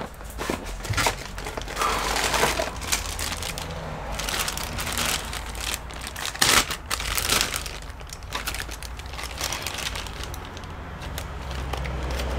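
Crinkling and rustling with irregular small clicks and knocks as RAM modules are handled and sorted.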